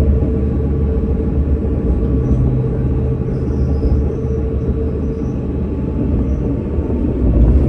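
Tram running: a steady low rumble with a few faint, even tones over it.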